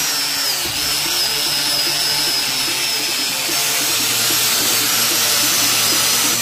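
Small motor running steadily at high speed, a dense buzzing noise with a thin high-pitched whine over it.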